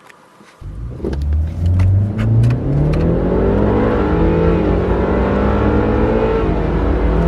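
BMW turbocharged four-cylinder car accelerating hard from a standstill: the engine note climbs, then drops back at each upshift, about two and three seconds in and again near the end. A few sharp clicks in the first seconds.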